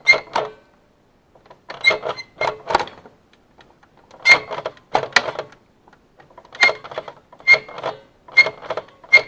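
Kyocera M2040dn automatic document feeder mechanism: a gear-driven plunger pushing a white plastic bar back and forth. It sounds as clusters of clicks and rattles with short high squeaks, repeating about every second and a half. This is the squeak-whistle this feeder is known for at startup and when the lid closes.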